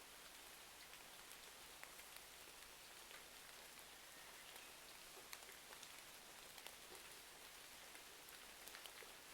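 Faint, steady rain hiss, with scattered small crackles and pops of a wood fire.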